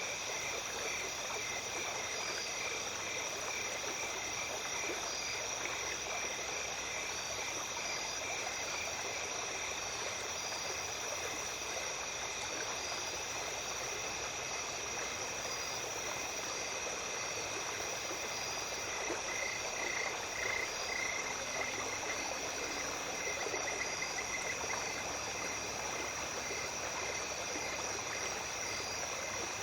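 Small stream running at night under a steady chorus of calling insects: several continuous shrill trills at different pitches, with a pulsing call that grows louder about two-thirds of the way through.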